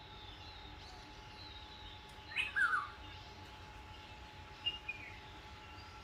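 Wild birds calling in tree canopy: one loud call with falling notes about two and a half seconds in, then two short notes near the end, over faint high chirps.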